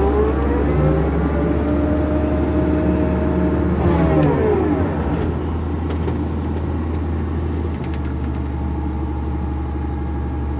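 A motor vehicle's engine rises in pitch, holds, then drops back about four seconds in, over a steady low rumble.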